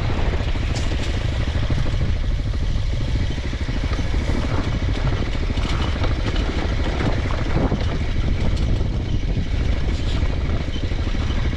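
Mondial Extreme Max 200i motorcycle engine running steadily as the bike is ridden off-road, with a few brief knocks.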